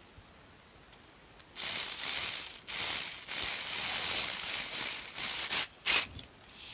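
Small metal hardware from an RC truck kit being rummaged and rattled by hand, a dense rustling rattle lasting about four seconds from a second and a half in, followed by one sharp click near the end.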